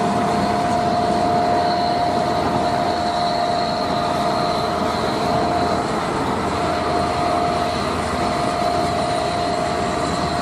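Steady, loud vehicle noise: a continuous rumble with a sustained high squealing tone on top, like rail wheels. It is cut in and out abruptly, and the squeal drops out briefly about six seconds in.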